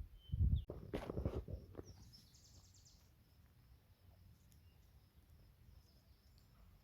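A cluster of low thuds and rustles in the first two seconds, then a short, fast bird trill and a few faint scattered chirps over quiet woodland background.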